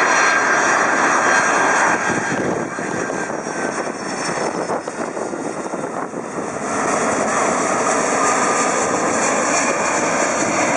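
Jet airliner on landing approach passing low overhead, its engines making a loud, steady roar. The roar eases off a couple of seconds in and swells again about seven seconds in.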